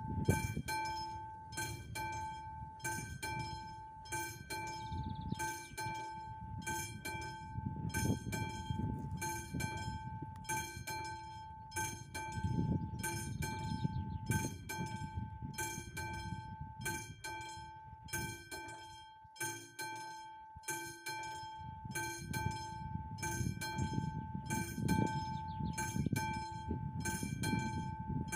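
AŽD 71 level-crossing warning bell, the classic electromechanical type, ringing steadily in even pulses about once a second, with a low rumble underneath.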